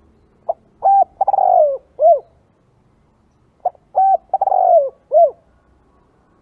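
Spotted dove cooing: two identical phrases about three seconds apart, each of four short coos with a longer third note that falls in pitch.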